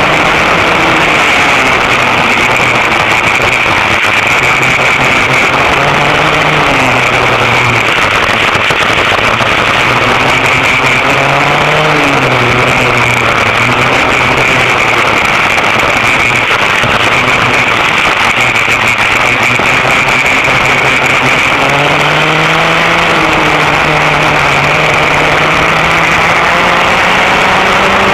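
Vintage dual rear engine go-kart's two-stroke engines running hard, their pitch climbing and dropping several times as the kart speeds up and slows, then climbing steadily near the end, over a loud steady hiss.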